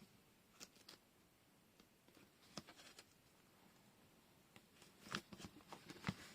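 Quiet room with faint, scattered taps and rustles of paper and washi tape being handled at a desk, coming more often near the end.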